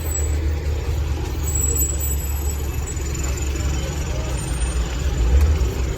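Motor vehicle running with a steady low rumble and road noise.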